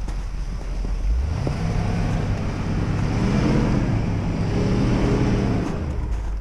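Jeep Grand Cherokee's engine revving under load as it climbs over a snowy bank. The revs rise about a second in, hold and waver through the middle, and ease off near the end.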